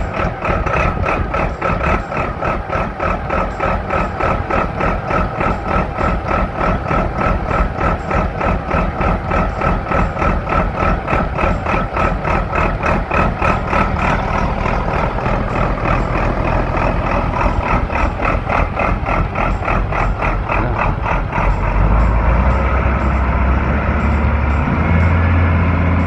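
Valtra BT210 tractor's AGCO Power diesel engine running at a steady speed, with a fast even pulse and a high whine over it. About three quarters of the way through, its low note grows louder and deeper.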